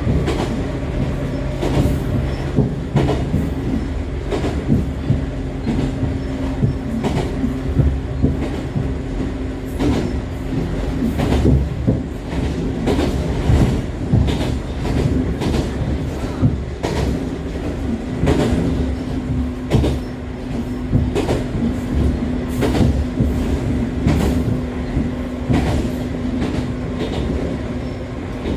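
Echizen Railway MC6101-series electric car MC6106 running at speed, heard from inside the car: its MT54 DC series-wound traction motors and gearing give a steady whine that fades a few seconds in and comes back past the middle, over a low rumble and repeated clacks of wheels over rail joints. The uploader labels this car as one with an abnormal noise.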